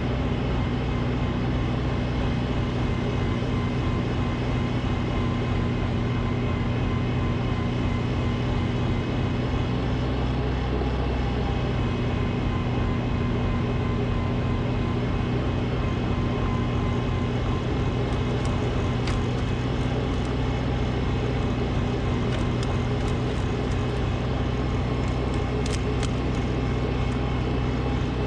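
Snowblower engine running steadily, with a few faint clicks in the second half.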